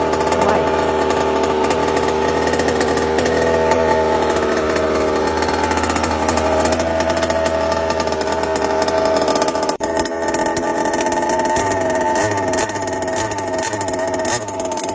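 Car engine sound effect, running and revving with a wavering pitch, with a short break about ten seconds in.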